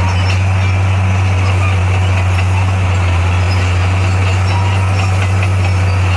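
D58A bulldozer's diesel engine running steadily: a loud, constant low drone with no change in speed.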